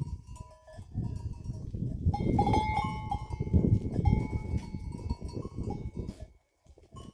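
Metal livestock bells ringing as a flock of sheep and goats moves, over a steady low rumbling noise. The sound drops out briefly near the end.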